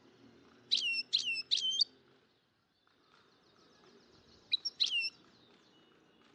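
Bird chirping: a quick run of three sharp, falling chirps, then after a short pause a couple more.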